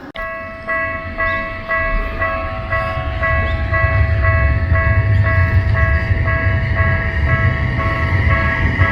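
Japanese level-crossing warning bell ringing in an even electronic pulse, about two strokes a second, warning of an approaching tram. A low rumble builds beneath it from about three seconds in.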